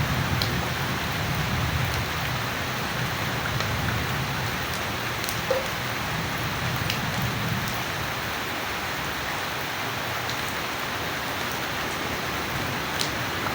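Steady rain falling, an even hiss with a few sharp drip ticks now and then. A low rumble of thunder dies away over the first few seconds.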